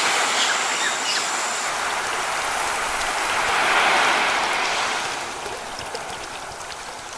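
Sea wave washing in, swelling to a peak about four seconds in, then drawing back and fading.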